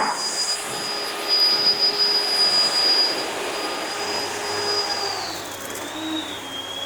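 A motor-driven machine running steadily: a rushing noise with a high whine that drops a little in pitch about five seconds in.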